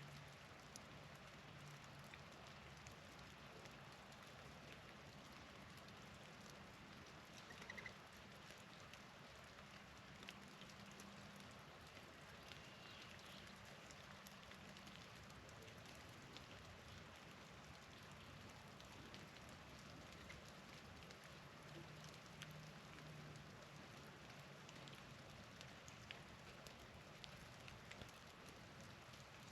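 Faint pattering of falling snowstorm precipitation: a low, steady hiss with scattered light ticks. One brief bird chirp comes about eight seconds in.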